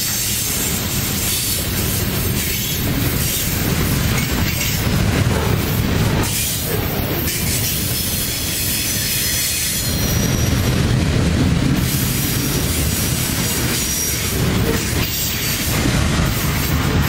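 Covered grain hopper cars of a freight train rolling past close by: a steady, loud rumble and clatter of steel wheels on rail. Now and then a faint high squeal comes from wheel flanges on the curve.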